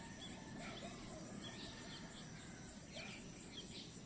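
Nature ambience: scattered short bird chirps over a steady high-pitched insect drone, with a faint low rumble underneath.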